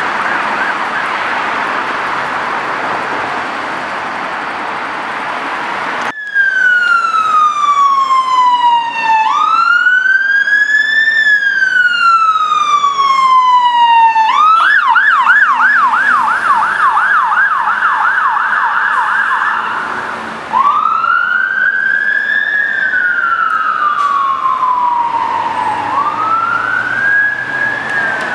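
Mercedes Atego fire engine's electronic siren on a wail: slow rising and falling sweeps of a few seconds each. About midway it switches to a fast yelp for around five seconds, then goes back to the wail. For the first few seconds, before a cut, a rougher siren-like sound is heard through noise.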